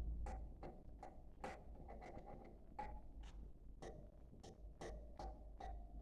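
Faint budgerigar chirps and clicks, short and sharp, coming irregularly about two or three times a second.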